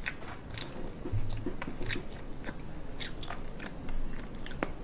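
Close-miked chewing of raw seafood: a string of sharp wet clicks and crunches from the mouth.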